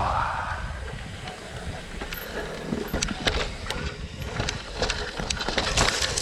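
Mountain bike ridden over a rough, rooty trail: tyres rumbling over dirt and roots, with the bike clattering in sharp clicks and knocks that come thicker near the end, and wind on the microphone.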